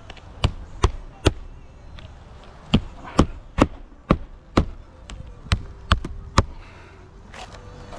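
Roofing nails being driven to fasten a replacement shingle: eleven sharp strikes in three quick runs of three, five and three, a short pause between runs.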